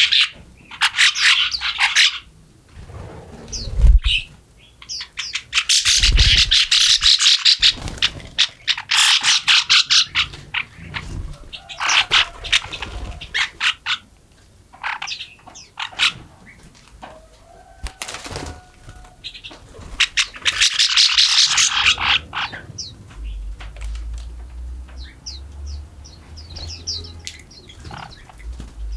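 Forest songbirds chirping and singing: phrases of rapid trilled high notes every few seconds, with single chirps in between. A low rumble runs under the last few seconds.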